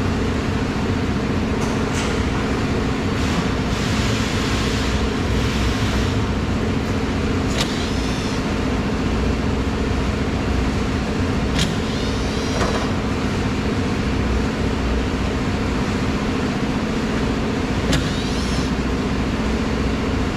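A steady machine hum, with a few sharp clicks and short scraping noises from hand work on the door handle's screws.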